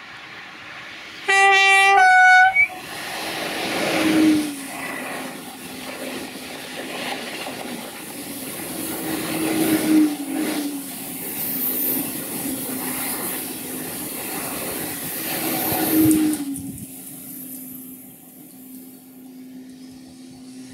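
TGV high-speed train sounding two short horn notes about a second in, then running past with a steady rush of wheels on rail and a humming tone. The sound swells and dips several times as the train goes by, then drops away suddenly after the last car passes.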